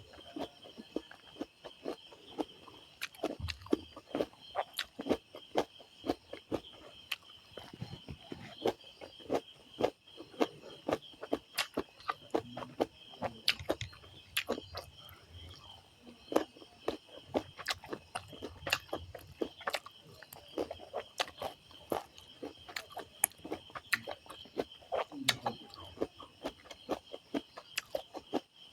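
Close-miked eating: a person chewing and smacking through rice with chicken curry, with many quick, irregular wet clicks and crunches, over a steady background chirr of crickets.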